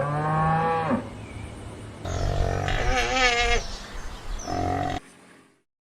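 An animal calling: a drawn-out pitched call, then a second wavering call a couple of seconds later, before the sound cuts off suddenly near the end.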